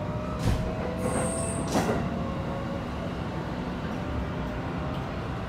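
Keikyu 1000 series train running, heard from inside the car: a steady rumble of wheels on rail, with a faint, slowly rising whine from its Toshiba IGBT-VVVF traction equipment. Two short knocks come about half a second and two seconds in, and a brief high wheel squeal sounds between them.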